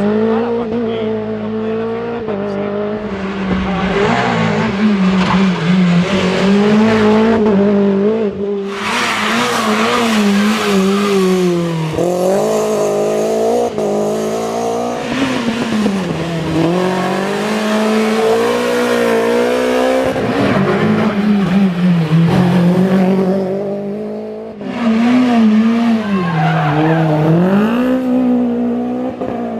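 Renault Clio Williams rally car's 2.0-litre four-cylinder engine revving hard, its pitch climbing and dropping again and again through gear changes and braking. There are a few abrupt jumps in the sound.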